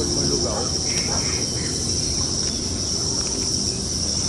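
Steady high-pitched chorus of insects, a continuous shrill drone with no break.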